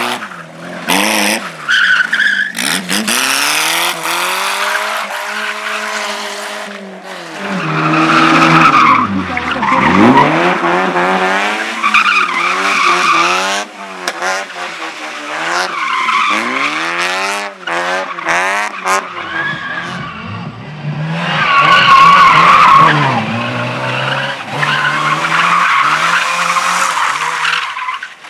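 A slalom race car's engine revving up and falling back over and over as it is driven hard through tight turns, with its tyres squealing through the corners; the squeal is loudest in two long stretches, about eight and about twenty-one seconds in.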